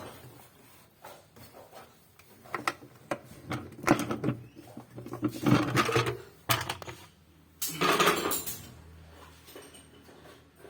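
Irregular metallic clattering and knocking of metal parts and tools being handled, with two louder bursts of clatter in the middle.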